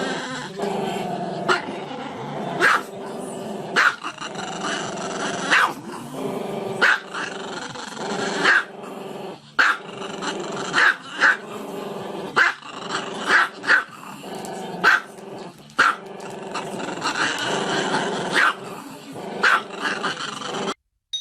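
A dog growling continuously, with sharp barks breaking in every second or two. The sound cuts off abruptly near the end.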